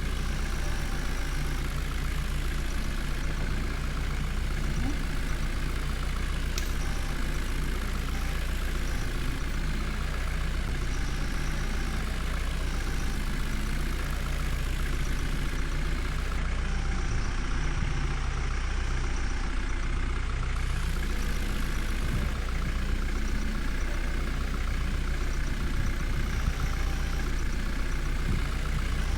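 Heavy diesel engine running steadily at an even speed, a constant low hum with no revving.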